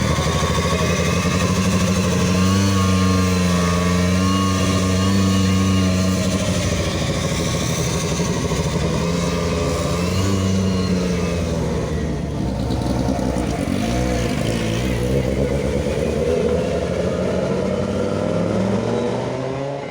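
Car engine running and being revved, its pitch held up for a few seconds at a time and wavering in between.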